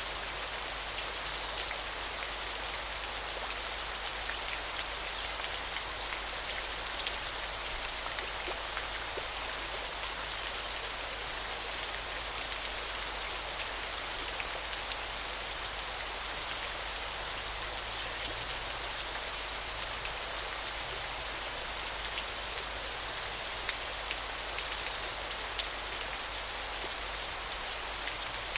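River water flowing: an even hiss of splashing water with a fine patter of drops. A high, thin steady trill comes and goes in stretches of one to three seconds near the start and through the second half.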